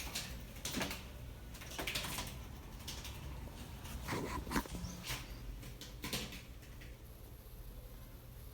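Small birds trapped indoors fluttering their wings: a series of short, sharp rustling bursts, the loudest about four and a half seconds in, settling down over the last couple of seconds.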